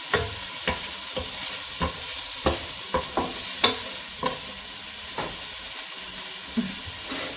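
Chopped onions sizzling in oil in a frying pan, with a steady hiss, while a utensil scrapes and knocks against the pan about twice a second as they are stirred. The onions are sautéing on medium heat, not yet translucent.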